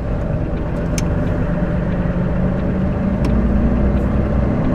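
Inside a heavy goods vehicle's cab: the truck's diesel engine drones steadily over road noise, with a few sharp clicks.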